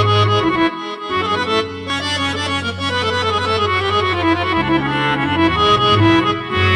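Instrumental music through a PA: a reedy, accordion-like melody over long held bass notes, the bass dropping out briefly about a second in.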